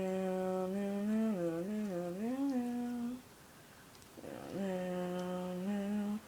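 A person humming long, drawn-out notes in two phrases, taking an audible breath before each. The first phrase wavers down and back up, and the second holds steady, then steps up in pitch just before it stops.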